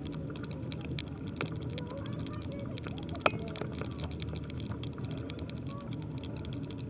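Riding noise from a bicycle on the move: a steady low rumble with many small irregular clicks and rattles, and one sharp click a little past three seconds in.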